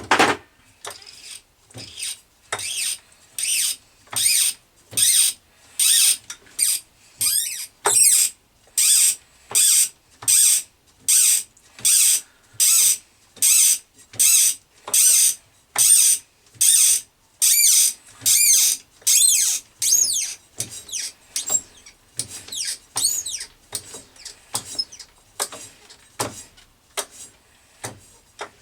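A 1/4 in Whitworth tap cutting a thread into a small brass nut, squeaking with each short turn, about three strokes every two seconds. The strokes turn fainter and more like ticks after about twenty seconds.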